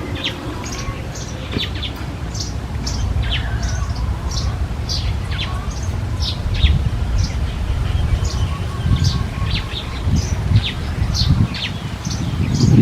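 Birds chirping: many short, high, quickly falling chirps repeating a few times a second, over a steady low rumble.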